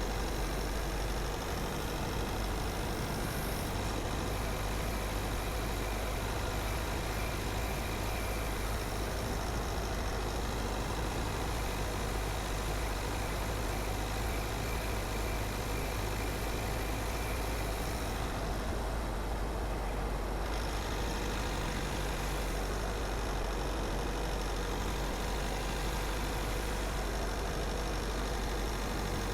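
A car driving along a road, with steady engine, tyre and wind noise and a strong low rumble. The hiss briefly softens for about two seconds past the middle.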